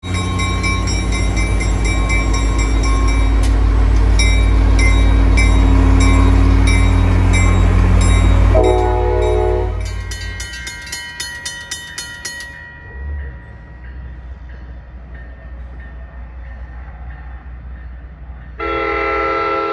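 NJ Transit diesel locomotive 4109, in CNJ heritage paint, passing close by with its engine running loud and low while a grade-crossing bell dings steadily. A short horn blast sounds about nine seconds in. The sound then drops to a quieter crossing bell, and near the end a train horn sounds loud and sustained from an approaching train.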